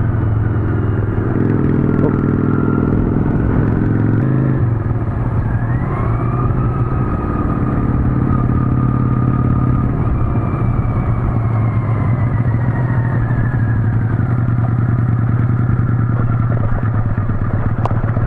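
Motorcycle engine running steadily while riding, its note changing about four seconds in.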